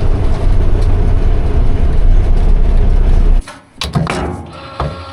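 Loud, rumbling vehicle engine running, cut off abruptly about three and a half seconds in. A few sharp knocks follow, then a quieter steady hum.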